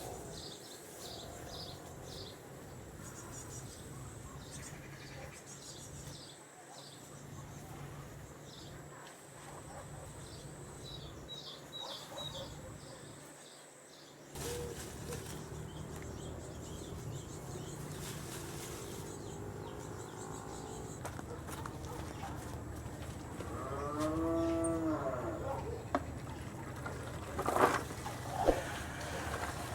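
A farm animal gives one drawn-out moo about two-thirds of the way in. Small birds chirp through the first half, and a few sharp knocks come near the end.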